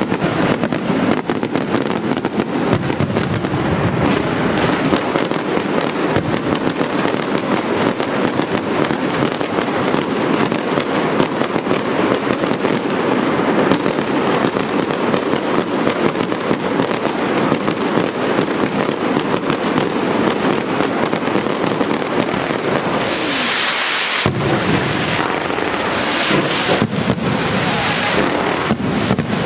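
Daylight fireworks barrage: a dense, continuous run of rapid firework reports crackling without a break. About 23 seconds in the barrage changes, dipping briefly and then going on as more separate, distinct bangs.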